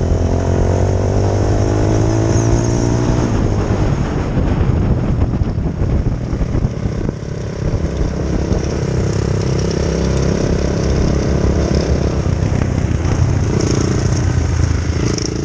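2004 Honda CRF450R's single-cylinder four-stroke engine running, its pitch dropping over the first few seconds, then holding fairly steady.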